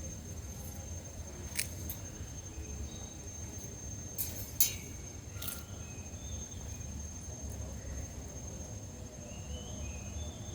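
An insect drones on one steady high pitch over a low rumble. A few sharp clicks come in the first half, and faint short chirps, likely birds, come near the end.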